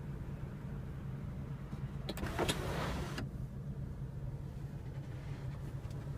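Electric motor of a 2015 Audi A3's panoramic sunroof running for about a second, some two seconds in, over a steady low cabin hum.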